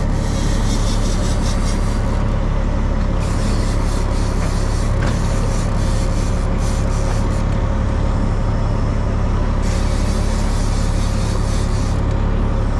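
Fishing boat's engine running steadily, with a hiss of wind and water over it that swells and fades every few seconds.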